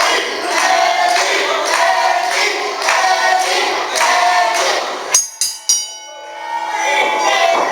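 A group of voices singing or chanting in a repeating pattern. About five seconds in this is cut by three quick strikes of a wrestling ring bell, ringing on briefly, before the voices resume.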